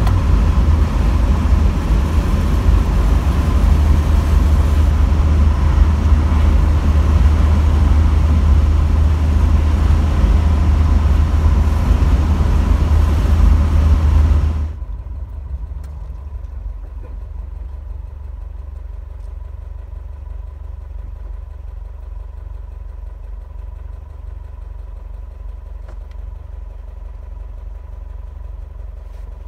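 Volvo B20A four-cylinder engine on a Weber 32/36 DGV carburettor, heard from inside the car while cruising in overdrive at about 90 km/h, around 2,500 rpm, with road and wind noise. About halfway it drops abruptly to a much quieter, steady low engine hum with the engine near idle.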